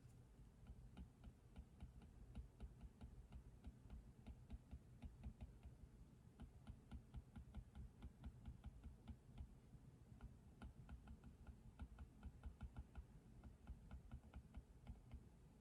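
Faint typing on a computer keyboard: a steady run of soft keystrokes, several a second.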